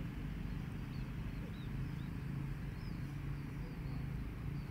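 A low steady rumble with faint, short high chirps of small birds every second or so.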